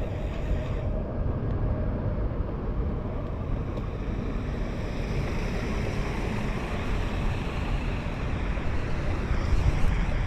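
Steady rumbling wind noise on the microphone of a moving bicycle, mixed with road and traffic noise on wet streets.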